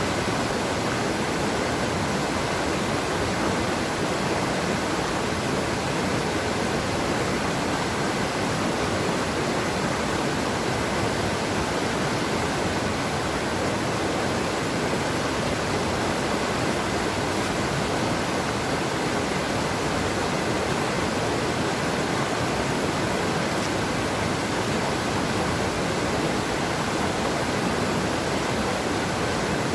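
Waterfall's steady rushing roar of falling water, even and unbroken.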